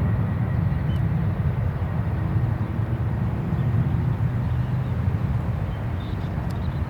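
Boeing 747 freighter's four jet engines at takeoff power, a deep steady rumble that slowly fades as the plane climbs away.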